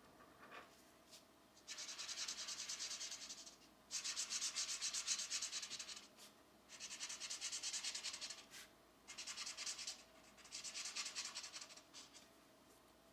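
Pencil shading on a coloring-book page: five spells of quick back-and-forth scratchy strokes, each a second or two long, with short pauses between them.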